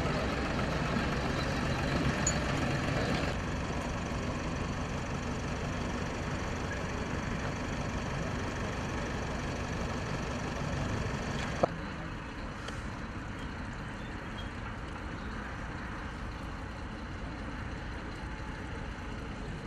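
Heavy vehicle engines running steadily in an outdoor din. The background changes abruptly twice, with a sharp click at the second change about twelve seconds in.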